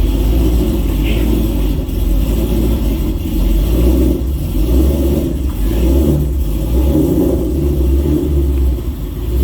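The supercharged 5.8-litre V8 of a 2013 Shelby GT500 running with a deep rumble that swells and eases as the throttle varies.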